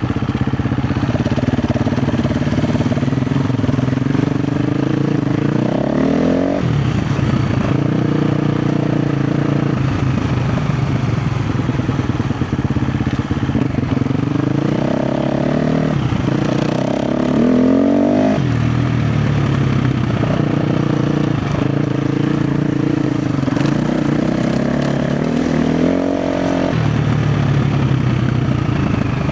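KTM 350 XC-F dirt bike's single-cylinder four-stroke engine running under changing throttle on a rough trail, its revs swinging up and down with several sharp rises about 6, 15, 18 and 26 seconds in.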